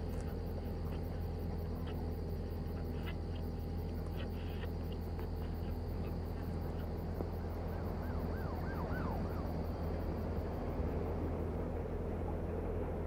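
Car engine idling with a steady low hum. Faint scattered clicks come in the first few seconds, and a short run of high chirps about eight seconds in.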